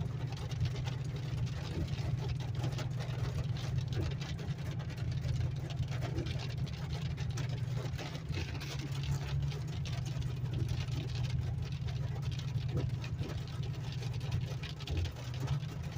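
Car driving slowly up a hail-covered mountain road: a steady low rumble of engine and tyres, with faint scattered ticks.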